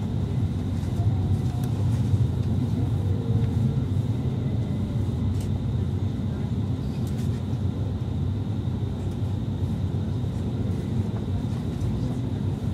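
Steady low rumble of a passenger train running at speed, heard from inside the coach: wheels on rails and running gear, with a few faint clicks.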